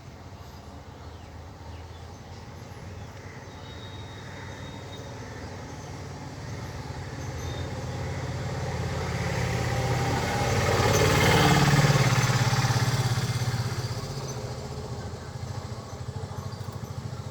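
A motor vehicle passing by: its engine and road noise grow steadily louder, are loudest a little past the middle, then fade away.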